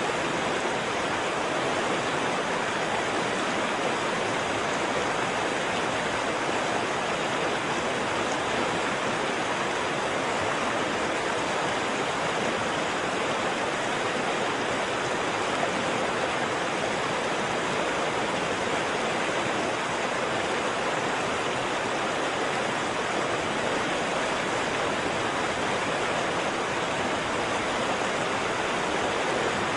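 Waterfall: water falling and rushing in a steady, unbroken roar with no changes.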